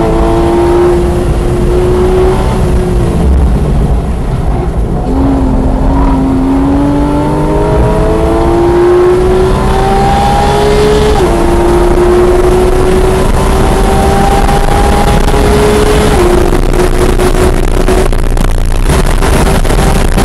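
2016 Porsche 911 GT3 RS's naturally aspirated flat-six pulling hard under acceleration, its note climbing steadily and dropping back at upshifts about 11 and 16 seconds in, after a brief easing around four seconds in. Wind and road noise grow louder as the car nears 140 mph.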